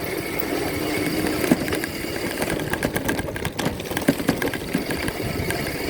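Dirt bike engine running steadily, with scattered sharp knocks and rattles.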